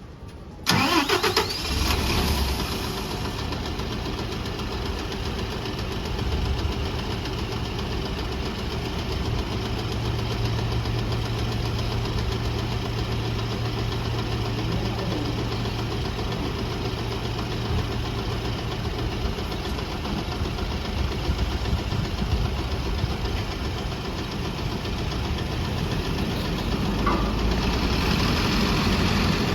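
City bus engine starting less than a second in, catching at once, then idling steadily, a little louder near the end.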